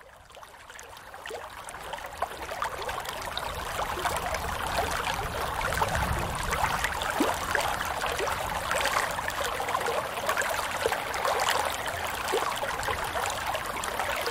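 Shallow water running and trickling, with many small splashes, fading in over the first few seconds and then steady.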